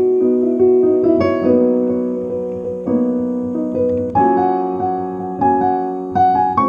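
Background piano music: slow chords and notes, each struck and left to ring and fade.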